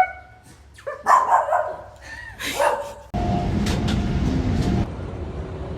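A dog barking, three or four short barks over the first three seconds. About three seconds in, a steady loud rumbling noise cuts in abruptly.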